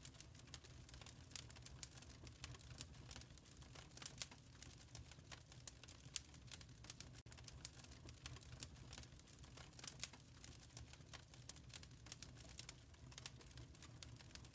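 Quiet wood fire crackling in a fireplace, with many small irregular pops and snaps over a soft, steady low rumble.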